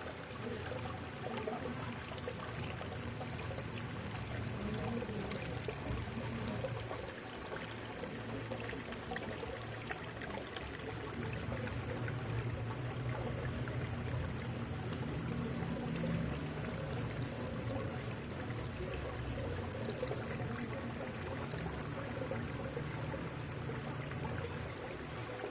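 Water pouring and trickling steadily into a small ornamental pond.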